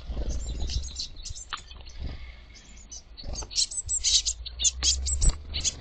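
Blue tits, young birds among them, calling at a bird feeder: a busy run of short, high chirps and twitters in quick succession, thickest in the second half, over a low steady rumble.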